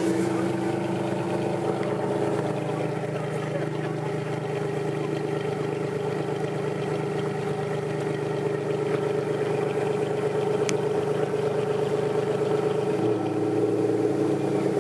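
Ferrari Enzo's V12 idling steadily.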